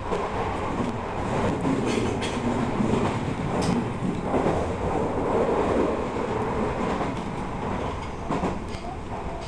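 Odakyu electric train running at speed, heard from inside the front car: a steady rumble of wheels on rail with a few sharp clicks of the wheels passing over rail joints.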